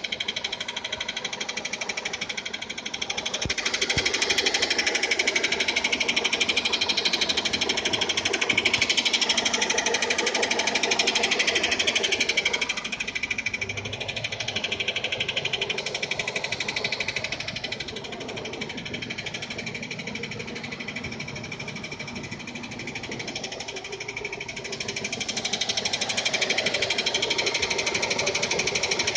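Renault Duster 2.0 four-cylinder petrol engine idling with a fast metallic knocking and ringing from the automatic transmission's flexplate, which is cracked and broken away at its mounting bolt holes. The rattle grows stronger and weaker over the stretch.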